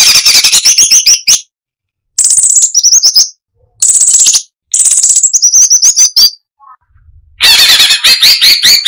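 Cucak cungkok singing in loud, rapid phrases about a second long. Each phrase is a dense chattering run of clicky notes ending in quick wavering high whistles, with short pauses between phrases and a longer phrase starting near the end.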